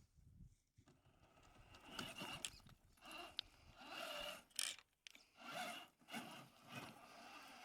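Large 1/7-scale RC crawler truck's electric motor and gear drive whining in short throttle bursts, about five in a row, with a gritty scrabbling of its tyres over rock.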